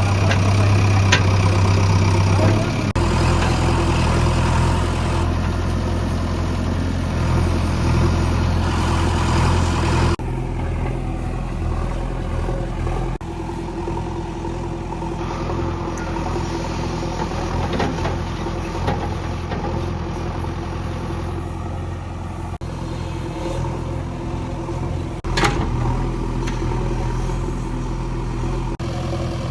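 Heavy diesel machinery running steadily, a backhoe loader and tractors at work. The engine note shifts abruptly a few times, and there is one sharp knock near the end.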